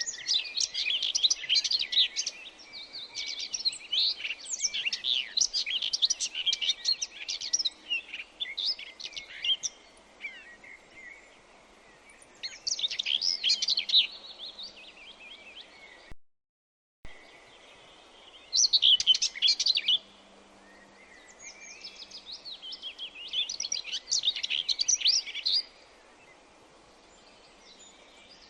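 Wild birds chirping and singing in phrases of quick, high chirps, with short pauses between them. The sound drops out entirely for under a second about sixteen seconds in.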